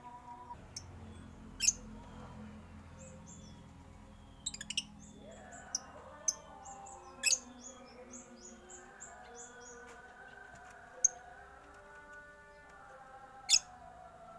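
Aviary birds chirping. Several sharp, loud single chirps come every few seconds, and in the middle there is a run of quick, high, falling notes.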